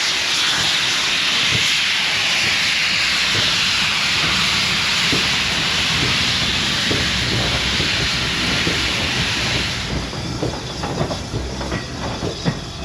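Steam locomotive hissing loudly and steadily as steam escapes. The hiss cuts off suddenly about ten seconds in, leaving a scatter of short knocks and clanks.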